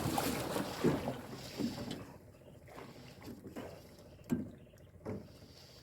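Water splashing and sloshing around a small boat, then a few short, dull knocks about once a second.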